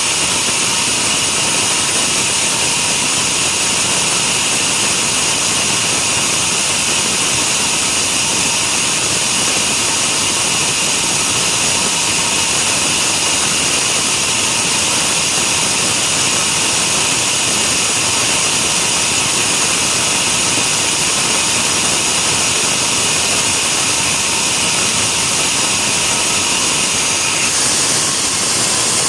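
Sawmill saw running steadily through the log: a loud, even mechanical whine with a strong high hiss and held tones. The tone shifts slightly near the end.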